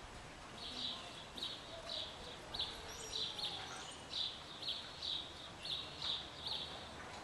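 A small bird chirping over and over, short high chirps about twice a second.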